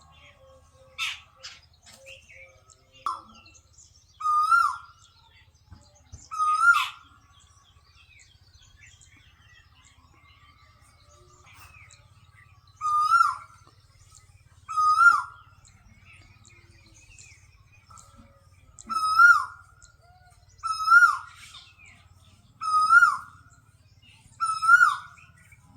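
A bird calling over and over: a short, sharply bending call repeated about every two seconds, with a pause of several seconds between bouts and a few other short notes near the start.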